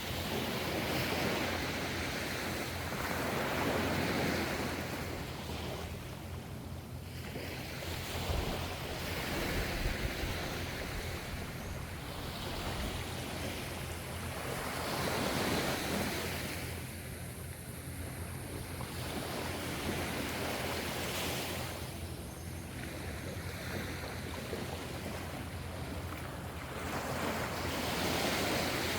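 Gentle ocean waves washing ashore, their rush of surf swelling and fading in slow surges every few seconds.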